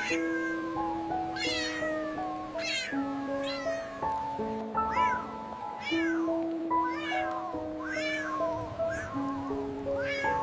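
Cat meows repeating roughly once a second, each a short falling glide, over background music of steady held keyboard-like notes.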